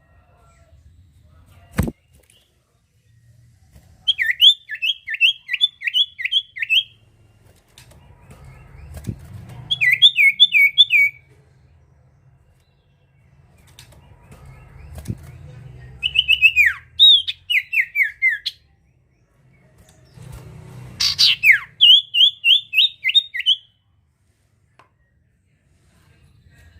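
A sirtu songbird calling: four phrases of rapid, repeated high down-slurred whistled notes, each lasting one to three seconds with pauses between. A single sharp click comes about two seconds in.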